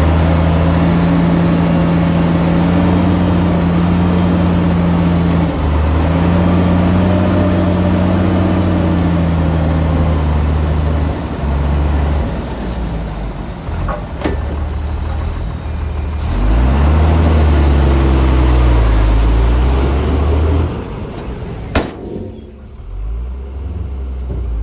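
Heavy diesel engine of earthmoving machinery working under load, steady at first, then its pitch dipping and rising as it is throttled up and down. One sharp knock near the end, as the engine drops back to a quieter run.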